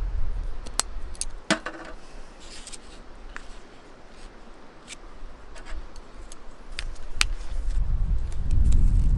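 Light clicks and taps of small objects being handled, with one ringing clink about a second and a half in. Wind rumbles on the microphone at the start and again near the end.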